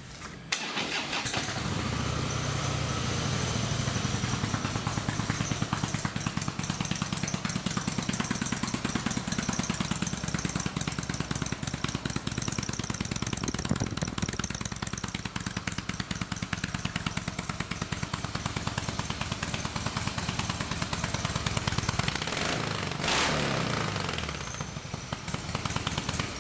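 Harley-Davidson 103-cubic-inch fuel-injected Twin Cam V-twin started and running steadily through its stock exhaust, whose baffles may have been punched out, giving it a little more sound. Near the end it gets a short rev and then settles back down.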